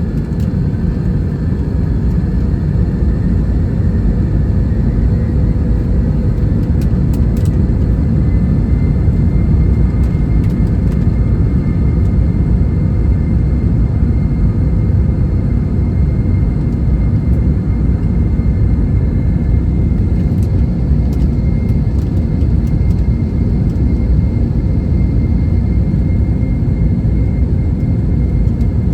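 Airbus A321-211 jet engines running, heard as a steady low rumble with a faint high whine that rises slightly over the first few seconds and then holds.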